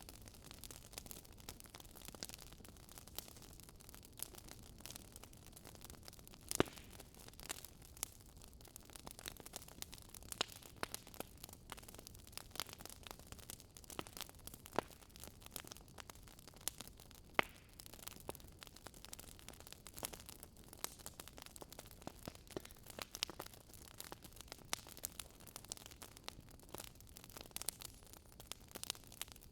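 Wood fire crackling in a fireplace: irregular snaps and pops, a few louder ones scattered through, over a soft steady hiss.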